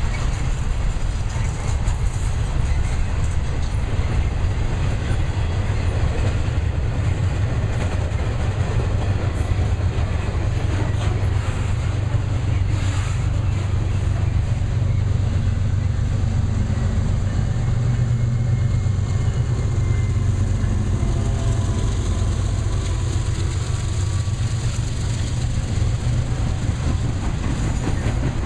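Intermodal freight train cars rolling past, a steady loud rumble of steel wheels on rail with some clatter over the rail joints.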